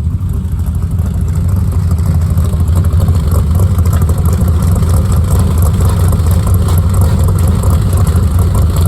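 1961 Ford Falcon's inline-six engine running steadily, freshly got running, growing a little louder over the first few seconds.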